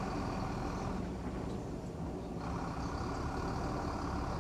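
Heavy diesel engine of earthmoving machinery running steadily, easing off about a second in and picking up again sharply a second and a half later.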